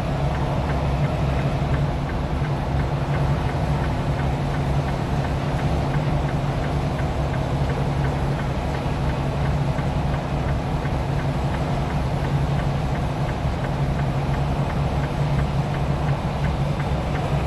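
Semi-truck engine running steadily under load, heard from inside the cab, with a faint, even ticking over it from the chained tires turning.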